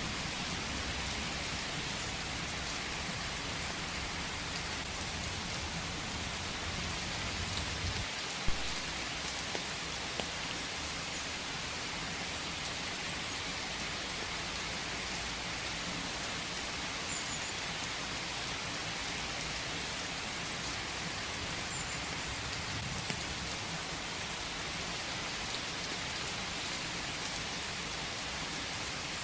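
Steady rain falling in a forest, an even hiss, with a few louder single drops striking close by; the loudest is about eight seconds in.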